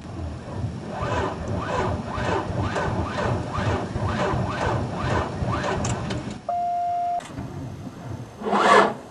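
A car engine being cranked by its starter motor, turning over slowly at about two strokes a second without catching. The narrator says this sign usually points to a failed battery, and more rarely to worn starter-motor brushes or a damaged engine bearing. A short steady beep sounds about six and a half seconds in, and a louder rasping burst comes near the end.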